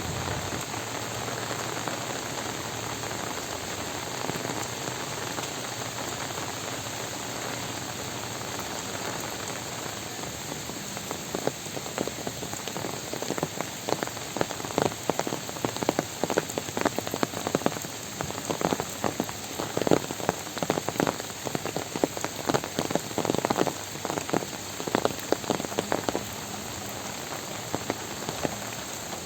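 Heavy rain falling in a steady hiss. About a third of the way in, loud irregular splats of large drops close by join it, thick for most of the rest, then thinning near the end.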